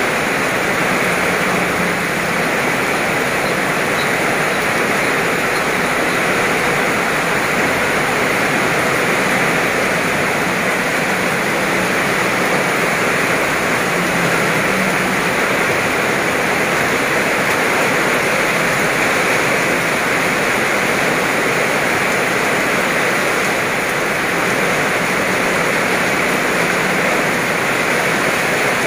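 Heavy rain pouring down on a wet road, grass and puddles: a loud, steady hiss with no let-up.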